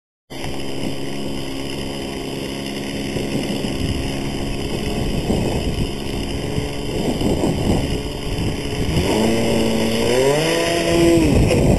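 Small glow engine of a radio-control model airplane running in flight, a steady buzz that rises in pitch about nine seconds in and holds there before dropping near the end, with wind noise on the microphone.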